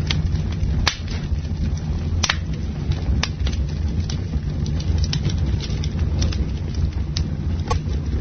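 Campfire burning: a steady low roar of the flames with sharp crackles and pops from the burning wood at irregular intervals, about one a second.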